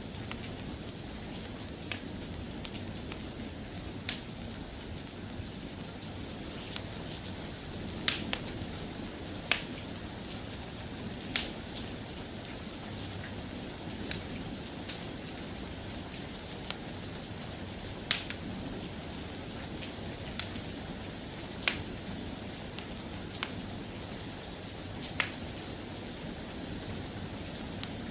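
Soft, steady rain, with irregular sharp clicks and pops every second or few.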